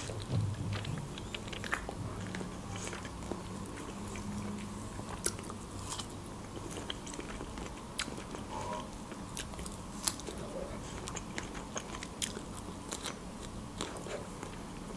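A ripe strawberry being bitten and chewed close to the microphone: soft, wet mouth sounds with many small scattered clicks and smacks.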